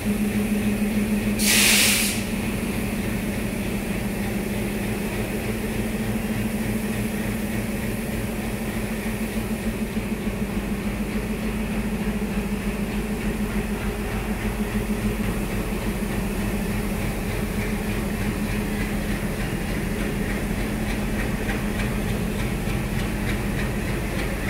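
Steady engine hum of a train standing at the station, with one short, loud hiss of released air about a second and a half in.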